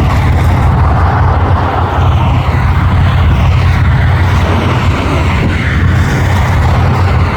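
Truck engine running with a loud, steady low rumble.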